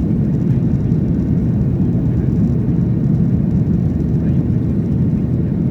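Steady low rumble inside a Boeing 737-800 cabin near the rear, from its CFM56-7B turbofan engines running and air rushing past the fuselage.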